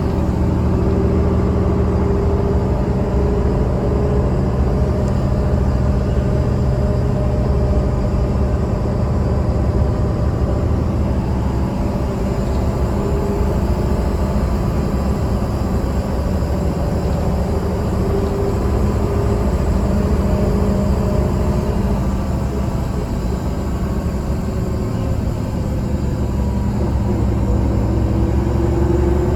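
Mercedes-Benz O307 city bus diesel engine running steadily under way, with road noise. The engine note dips slightly about three-quarters of the way in and climbs again near the end.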